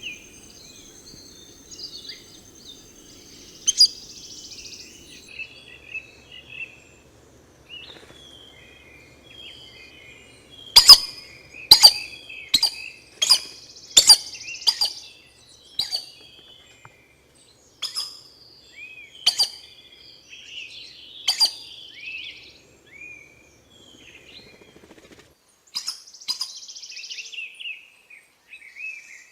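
Birds calling in tropical forest: a background of many short chirps, a thin steady high tone in the first few seconds, and a series of loud, sharp, clipped notes, about eight in quick succession near the middle, then scattered single ones.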